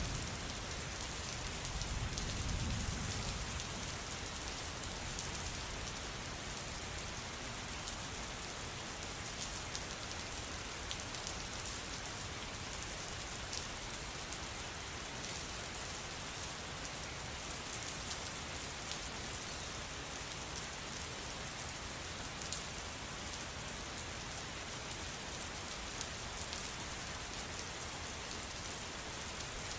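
Steady rain falling, a constant hiss with fine ticks of individual drops. A brief low rumble swells and fades about two seconds in.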